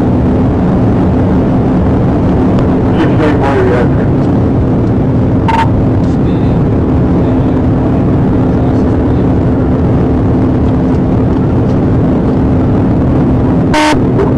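Loud, steady road and engine drone of a police patrol car driving at speed, with a steady low hum running through it. Two short sharp blips cut in, one about five and a half seconds in and one near the end.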